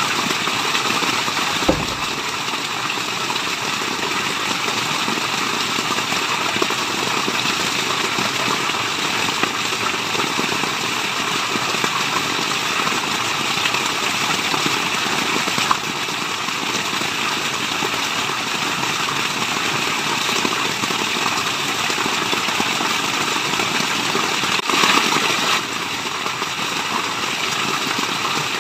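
Waterfall running: a steady, even rush of falling water, with one brief knock about two seconds in.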